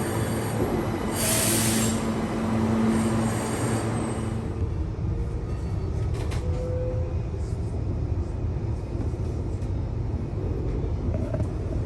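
Electric suburban passenger train running on the rails: a steady low rumble with a held hum that fades out about four seconds in, and a short hiss about a second in.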